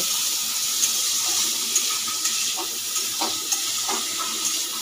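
Soaked, drained cashews and raisins sizzling as they fry in ghee in a metal kadai, with a steady high hiss. A spatula scrapes and taps against the pan several times in the middle.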